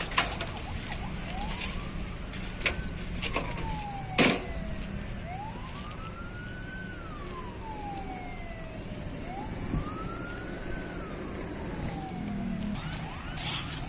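A siren wailing in three slow rise-and-fall sweeps, each about three to four seconds long, over a steady low engine rumble. A few sharp knocks come in the first few seconds.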